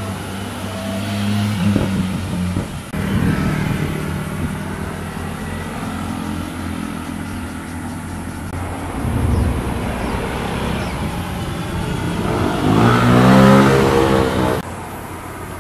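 Motorcycle engines passing one after another, revving as they go by, in several short cuts. The loudest pass, near the end, has a rising engine note and cuts off abruptly.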